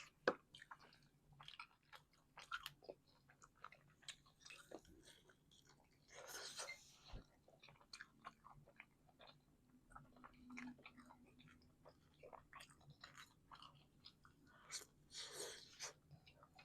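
Close-up chewing of a mouthful of hot calzone, with soft wet mouth clicks throughout. Two longer hissy sounds come about six and fifteen seconds in.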